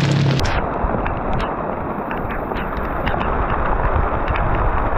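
A side-by-side UTV's engine hum cuts off about half a second in, leaving heavy rain pattering on the vehicle's roof, with scattered sharp drips and taps.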